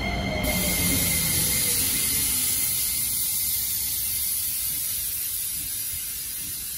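Shin-Keisei electric commuter train moving off past the platform: a steady low rumble of wheels on rail with a high hiss that comes in about half a second in. It slowly fades as the last car goes by.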